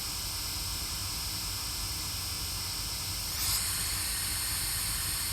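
Steady static hiss, with a brief rising sweep about three and a half seconds in.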